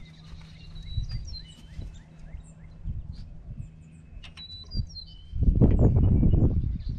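Small birds chirping in short, quick calls over a steady low hum. About five seconds in, a loud low rumbling noise lasts for a little over a second.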